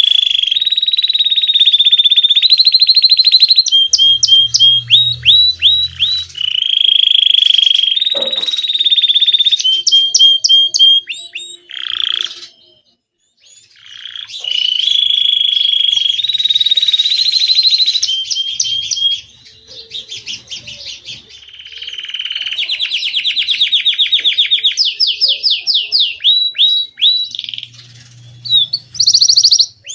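Domestic canary singing: long rolling trills and rapid runs of repeated notes, with a brief pause about halfway through.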